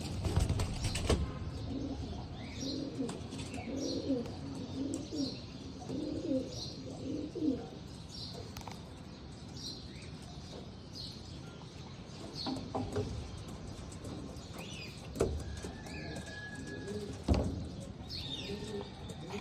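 Racing pigeons cooing, with high chirps repeating about once a second and a few short thumps, one near the start and two in the last third.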